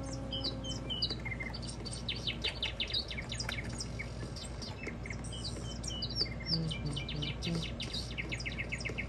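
Birds chirping and trilling: a steady stream of short high notes and quick rattling trills, over a low steady hum.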